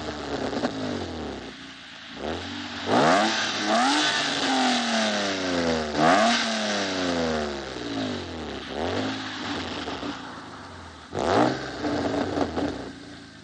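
BMW E36 323i's straight-six being revved repeatedly while standing still, the pitch rising and falling several times in quick blips, with another sharp rev near the end.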